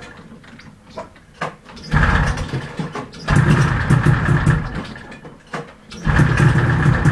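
A 1973 Arctic Cat Panther snowmobile's two-stroke engine being cranked over three times, each attempt a short rattling burst that nearly fires but does not catch: a cold start on an engine that is struggling to draw fuel.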